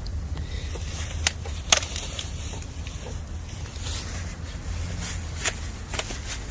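Bamboo burning in a campfire, crackling with sharp pops: two loud cracks a little over a second in, then several more near the end. A low steady rumble lies underneath.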